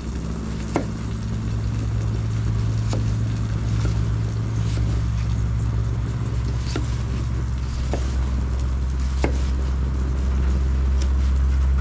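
A low, steady engine drone that slowly grows louder, with a few sharp pops over it.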